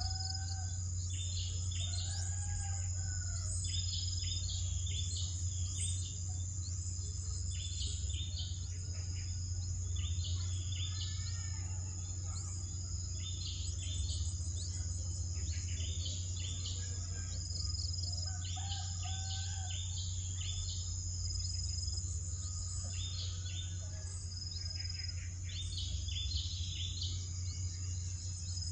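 Birds calling in short, repeated bursts every second or two, over a steady high insect drone and a low steady hum.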